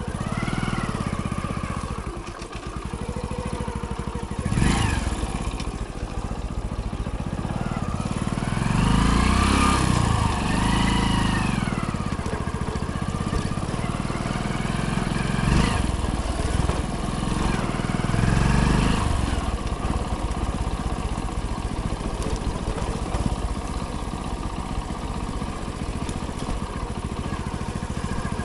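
Hero Splendor motorcycle's single-cylinder four-stroke engine running under way, its pitch rising and falling several times as the throttle opens and closes. Two sharp knocks, about five and fifteen seconds in.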